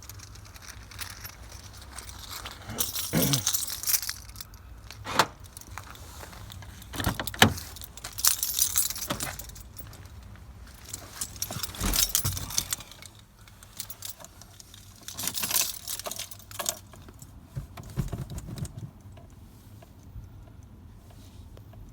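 A bunch of car keys jangling in several separate bursts, with a few sharp clicks in between.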